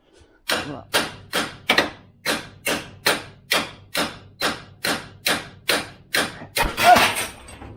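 Steady, evenly spaced hammer blows, a little over two a second, on the passenger-side CV axle of a 2008 Jeep Compass to work the stuck shaft loose; a louder blow comes near the end.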